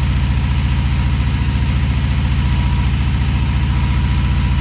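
Honda Magna VF750C's V4 engine idling steadily while it warms up from a cold start, its four carburetors not yet synchronized.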